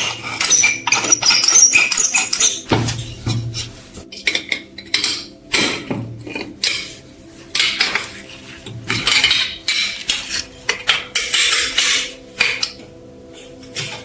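Metal parts and hand tools clinking and knocking irregularly, with a few short scraping or brushing passes.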